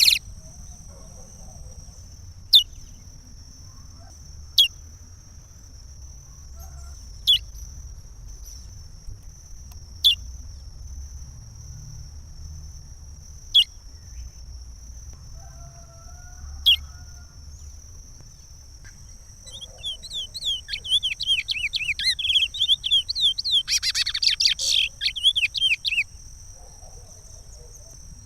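Curió (chestnut-bellied seed finch) singing the Pará regional song: single sharp falling notes every few seconds, then about twenty seconds in a fast phrase of many quick falling whistles lasting several seconds.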